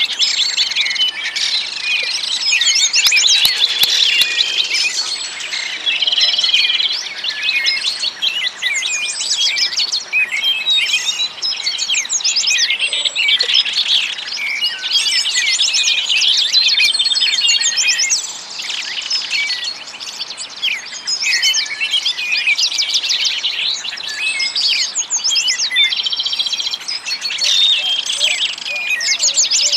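A chorus of many small songbirds chirping and trilling at once, with rapid overlapping calls and no pause.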